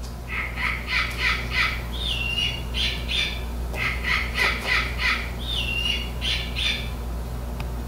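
Pet bird squawking: runs of short, harsh calls a few a second, broken twice by a whistle that drops in pitch and then holds.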